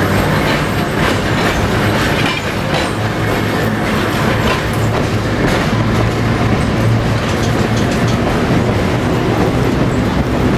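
Rail car running on track, heard from on board: a steady low hum with the rumble and irregular clickety-clack of wheels over rail joints.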